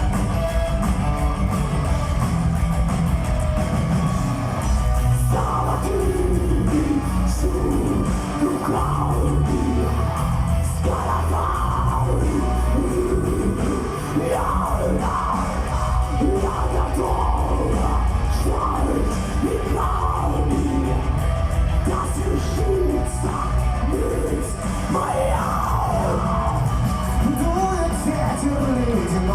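Live heavy metal band performing, with drums, bass and guitars playing. Lead vocals come in about five seconds in and continue over the band.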